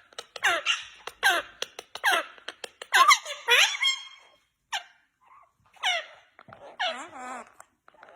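Parrots' squeaky calls: short chirps that sweep steeply down in pitch, repeated about ten times, with a longer warbling call near seven seconds in.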